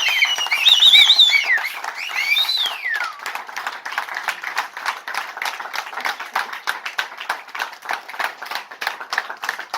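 A crowd clapping in quick, dense applause, with a few high, shrill calls that rise and fall over the first three seconds.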